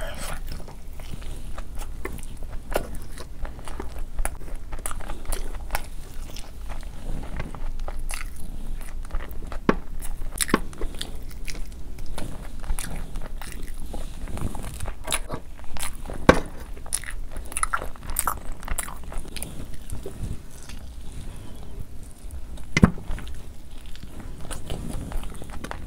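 Close-miked biting and chewing of spicy chicken satay, with many irregular wet mouth clicks and smacks. There are two louder cracks, one about two-thirds of the way through and one near the end.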